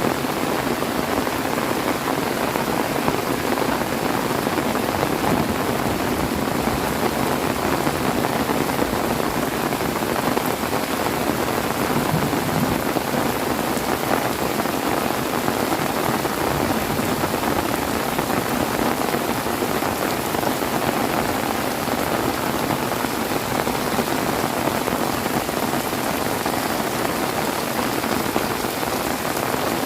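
Heavy rain falling steadily, a dense, even patter with no thunder.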